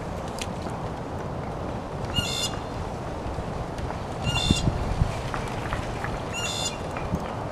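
A bird giving a short harsh call three times, about two seconds apart, over a steady rushing background noise.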